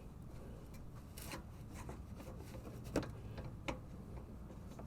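Light rubbing and a few small clicks as the parking brake cable is worked loose at the rear brake caliper, the sharpest click about three seconds in.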